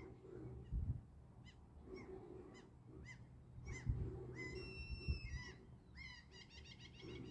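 Waterbirds calling: a string of short calls, one longer drawn-out call about halfway through, then a quick run of calls near the end. Underneath is a low rumble with a faint steady hum and a few soft thumps.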